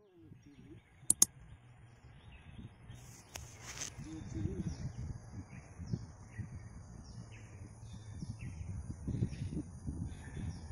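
Outdoor grassland ambience. From about three seconds in, a bird repeats a short falling chirp roughly twice a second, over a steady high insect drone and a low, uneven rustle. Two sharp clicks come about a second in.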